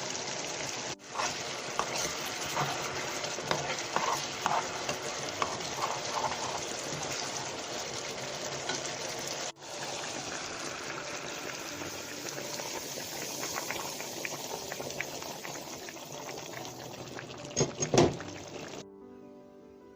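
Cabbage and ribs frying in a pan: a steady sizzle with scattered clicks from stirring, broken twice by abrupt cuts. A louder clatter comes near the end, just before the sizzle stops.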